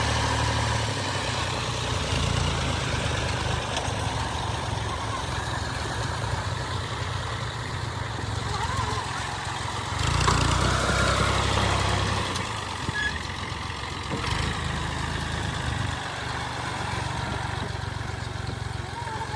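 Combine harvester's diesel engine running steadily with a low drone, the threshing machinery adding a rushing noise; it grows louder for about two seconds around ten seconds in.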